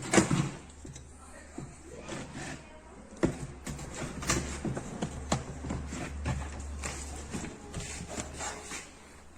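Handling noises: a string of knocks, clicks and rubbing, irregular and scattered, with the sharpest knocks right at the start and about three seconds in, over a steady low hum.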